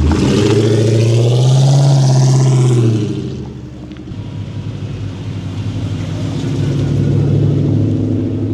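Car engine revving hard, its pitch climbing, then backing off about three seconds in before building up again.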